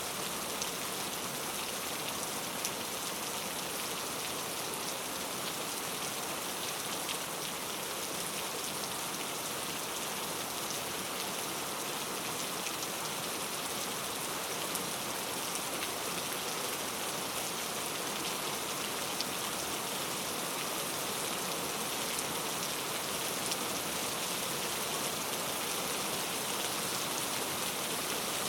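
Steady rainforest rain: an even hiss of rainfall with a few single drops standing out now and then.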